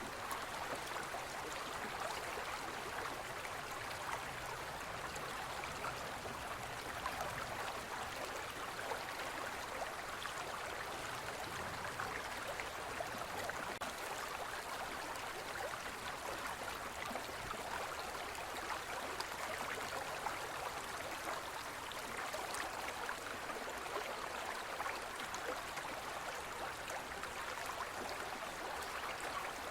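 Gentle forest stream flowing: a steady, even rush and babble of water.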